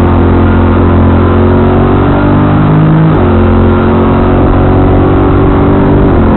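Car engine pulling under acceleration. Its pitch climbs steadily, drops abruptly about three seconds in as a gear is changed, then climbs again to another drop near the end.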